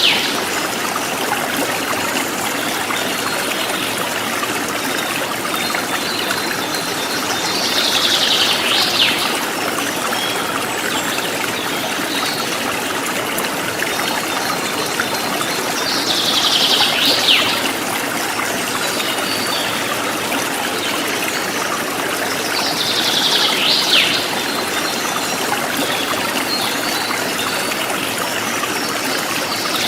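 River water flowing, a steady rush and trickle. Four times, about seven to eight seconds apart, a short high-pitched sound falling in pitch rises slightly above the water.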